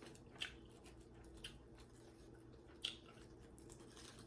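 Quiet chewing of food close to the microphone, with three short soft crunches about a second apart, over a faint steady hum.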